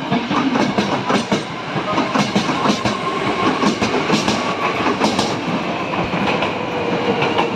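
Hankyu 7000-series electric train running along the track, its wheels clacking over rail joints in quick succession over a steady rumble. A faint steady whine runs through the middle and another, lower one comes near the end.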